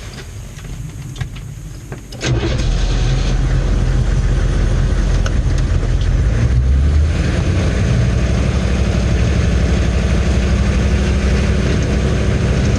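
1990 M998 Humvee's V8 diesel engine running at idle, then about two seconds in it gets much louder and holds a steady, loud low rumble as the truck pulls away under load up a steep, icy road.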